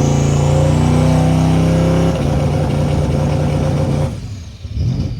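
Twin-turbo Terminator Mustang Cobra's 4.6-litre V8 floored and held on the two-step rev limiter against the engaged trans brake, really loud at a steady pitch. About four seconds in the throttle is released and the engine drops back to idle.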